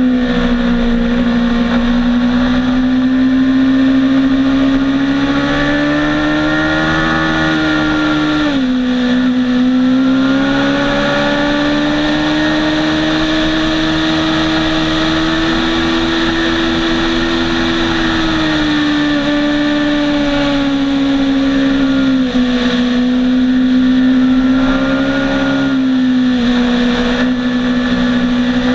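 Motorcycle engine running hard on a race track, its pitch climbing slowly as it pulls and dropping sharply about eight seconds in and again around eighteen seconds in, with a rush of wind noise.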